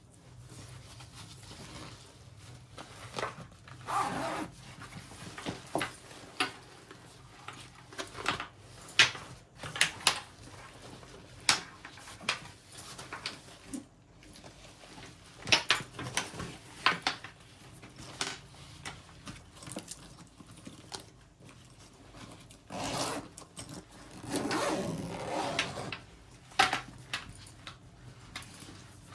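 VIP Insignia Legacy Expander laptop backpack being handled: zips pulled along in several longer swishes, the longest from about 23 to 26 seconds in, among scattered clicks, knocks and rubbing of the bag's fabric.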